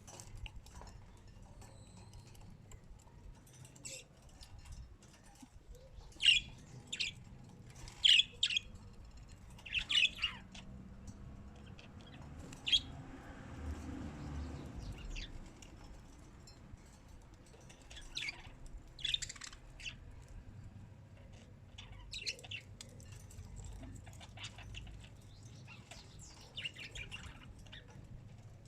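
Birds calling with short, sharp chirps that come in bursts of two to four, spaced out by a few seconds of quiet. A soft low rumble rises and fades around the middle.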